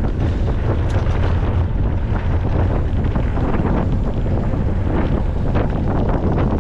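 Wind buffeting the microphone of a camera riding along on a mountain bike, with scattered clicks and rattles from the bike over rough trail.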